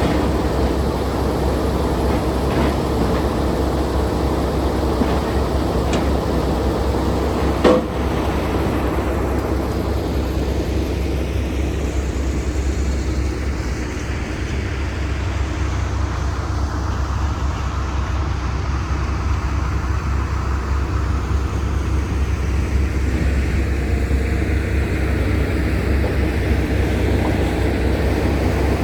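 Logging truck running steadily under way, with a steady low engine and road rumble. A single short sharp click or knock comes about eight seconds in.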